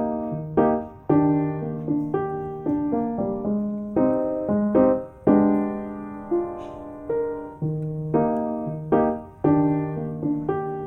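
Gentle piano music: chords and melody notes struck one after another, each ringing and fading before the next.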